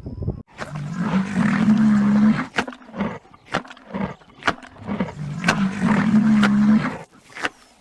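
Lion roaring: two long calls of about two seconds each, with sharp clicks in between.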